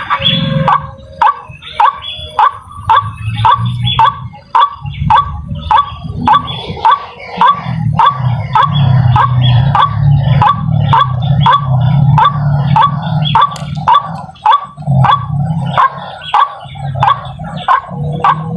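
White-breasted waterhen (ruak-ruak) calling over and over: harsh, bark-like notes, about two to three a second, over a steady low rumble.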